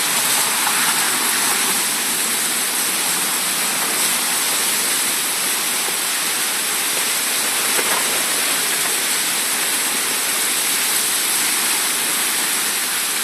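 Heavy rain pouring down in a sudden downpour: a dense, steady hiss of water that holds at the same level throughout.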